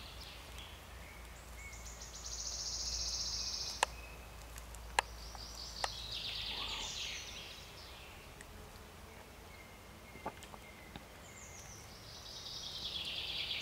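Faint songbird song: three high, fast trilling phrases, the first held level and the other two falling in pitch, with a few sharp clicks in between.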